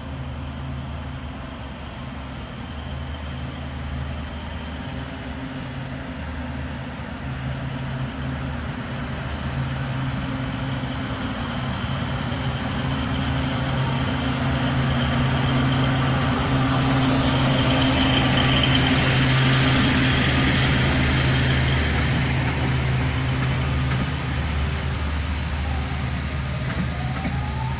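Passenger train running past with a steady low engine drone, growing louder to a peak about two-thirds of the way in, then easing off. A rising tone begins near the end.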